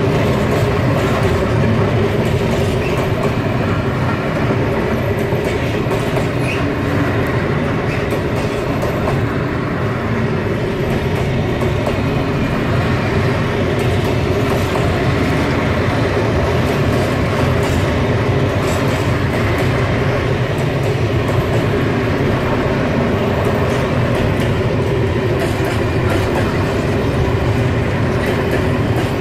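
Freight train wagons, high-sided boxcars and container flat wagons, rolling past at low speed: a steady rumble of steel wheels on the rails with scattered clicks and knocks.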